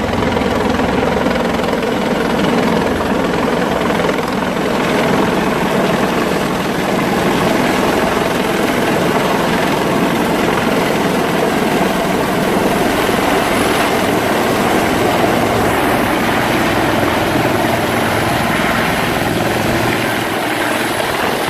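Medical helicopter running close by at a helipad: a loud, steady rotor and engine noise that does not let up.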